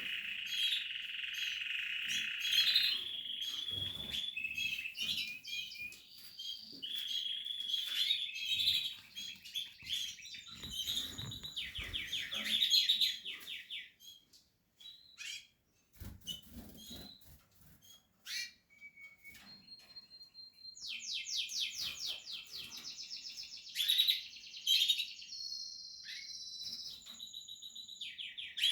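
Portuguese harlequin canaries chirping and trilling, with several stretches of rapid, buzzy trills. About halfway through there is a quieter pause with a few scattered clicks, then the trilling starts again.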